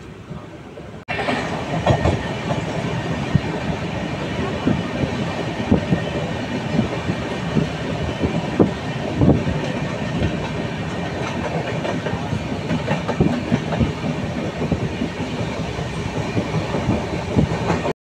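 Moving Indian Railways passenger train: a steady rumble and rattle of the coaches, with the wheels clicking over rail joints. It starts abruptly about a second in and cuts off just before the end.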